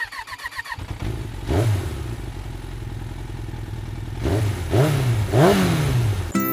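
Motorcycle engine with a brief rapid ticking at the start, then idling steadily and revved up and back down four times. It cuts off suddenly near the end.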